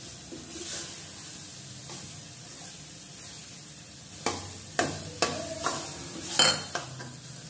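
Onion-tomato masala paste sizzling steadily in oil in a stainless steel pan while a steel ladle stirs it, with a run of sharp ladle scrapes and knocks against the pan from about four seconds in. The oil has separated from the masala, the sign that it is fully fried.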